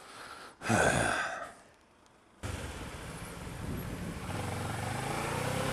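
Motorcycle engine and wind noise while riding, cutting in suddenly about two and a half seconds in with a steady low hum under a rushing hiss. It is preceded by a brief loud sound that falls in pitch, followed by a short quiet gap.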